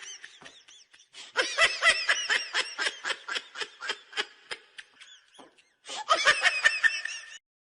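A person laughing in quick, high-pitched bursts, in two bouts: a long one starting over a second in and a shorter one near the end.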